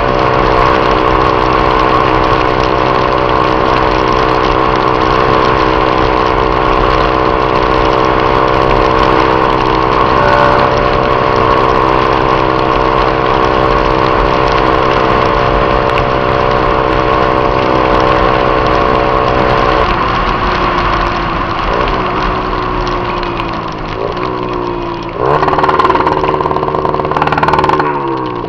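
Honda Titan 150 single-cylinder motorcycle engine through a Viúva Negra exhaust, running at steady revs for about twenty seconds. Then the pitch drops as the revs fall, and near the end it rises and falls again in a few quick glides.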